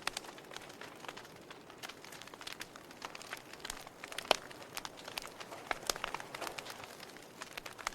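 Wood fire in a fireplace crackling: irregular sharp pops and snaps over a soft steady hiss, with one louder pop about four seconds in.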